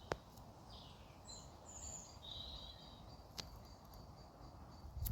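Faint outdoor ambience with a few short bird chirps, and two sharp clicks about three seconds apart.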